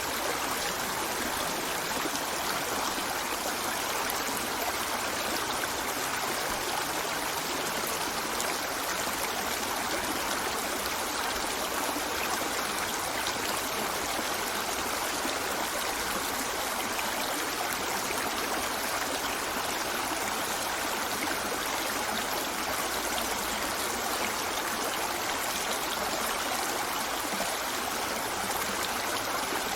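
Shallow river flowing over rocks: a steady rushing and burbling of water with no breaks or changes.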